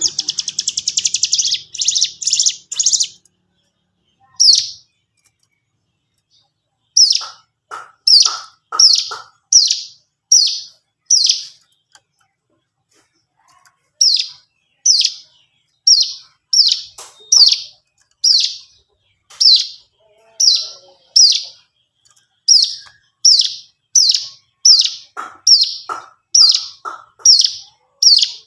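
Hill prinia (ciblek gunung) calls: a fast, dense trill at the start, then a long run of sharp, high, downward-slurred chip notes at about two a second, broken by a couple of short pauses.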